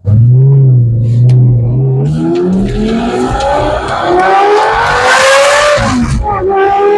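Lamborghini engine through a new titanium slip-on exhaust, loud, accelerating hard with the revs climbing. The pitch drops briefly about six seconds in as it shifts up a gear, then climbs again.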